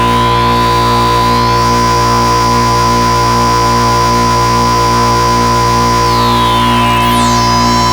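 SxLab Fortress experimental synthesizer sounding a sustained, steady drone full of overtones, with a pulsing low part. Its upper overtones sweep upward over the first second and a half, hold, and sweep back down with a warbling glide near the end.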